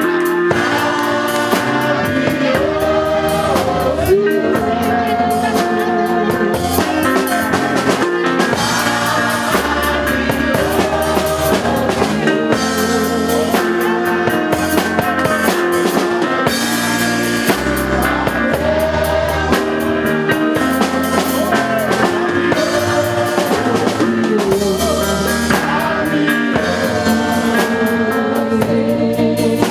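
Live praise-and-worship band music: drum kit and bass keeping a steady beat under keyboard chords, with singing.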